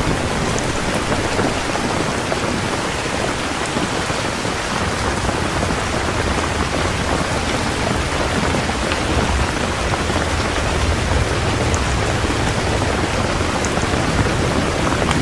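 Heavy rain falling steadily, a dense even hiss, with low rumbles of distant thunder about halfway through and again near the end.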